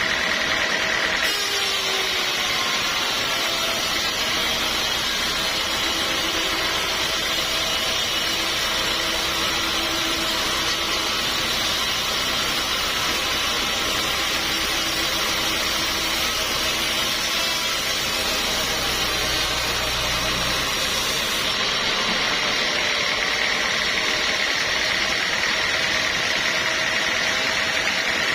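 Sawmill machinery running steadily with a constant hum and whine. From about a second in until about twenty-one seconds in, a harsher, hissier layer with a deeper rumble sits on top of it.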